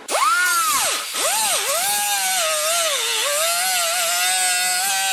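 A high-speed power tool cutting rusted sheet metal. It whines up sharply and drops in pitch twice as it bites, then runs steadily under load with the pitch sagging and recovering slightly.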